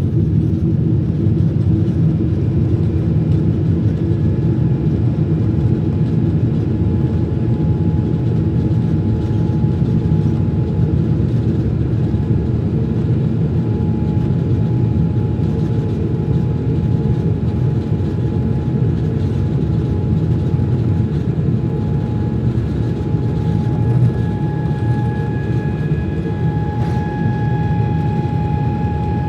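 Boeing 777-300ER's GE90 turbofan engines running with a steady, heavy rumble and faint high whine tones that grow stronger over the last few seconds.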